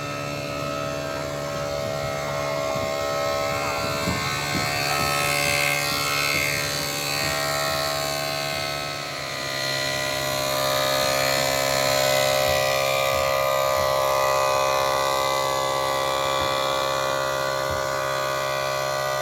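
A machine running steadily: a continuous hum made of several held tones, which shift to a new set about nine seconds in and run on steadily.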